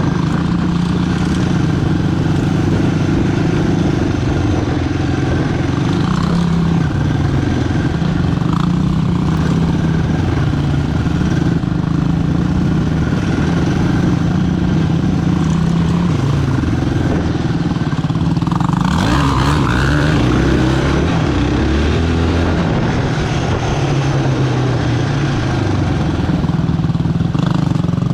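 Sport quad's engine running under way, its pitch rising and falling with the throttle, with a sharper rev climbing and dropping back about two-thirds of the way through.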